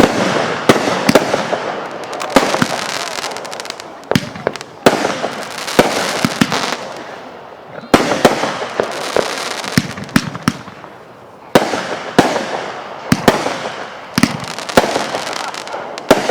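Fireworks going off in a dense barrage: loud sharp bangs, often several a second, with crackling in between, coming in volleys that briefly die down and start again.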